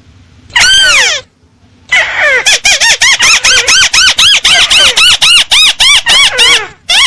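Lure recording of a crake (Indonesian burung tikusan) calling: one long falling note, then after a short pause a fast run of short, arched squealing notes at about four to five a second.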